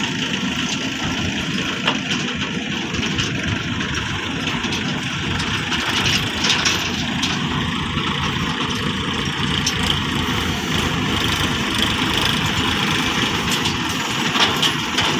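Engine of a tractor or similar heavy farm machine running steadily, with a few brief louder knocks.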